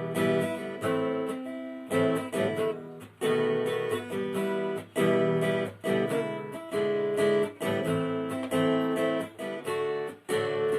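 Acoustic guitar strummed in a steady rhythm with short, muted gaps between chords, playing the instrumental break of a song with no singing.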